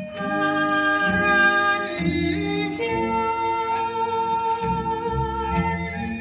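Old Thai popular song played from a vinyl record: sustained organ-like chords with a singing voice, the chord changing every second or two.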